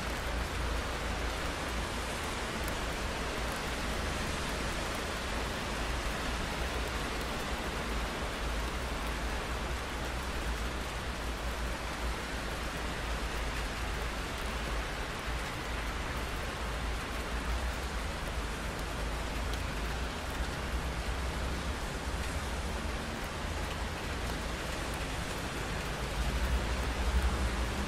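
Steady rain falling, an even hiss with a low rumble underneath that swells briefly near the end.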